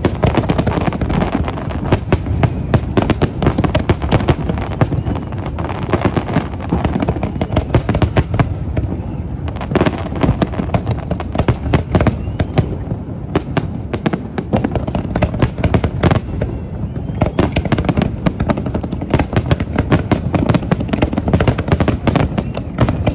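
Fireworks display: a dense, continuous barrage of bangs, several a second, over a steady low rumble.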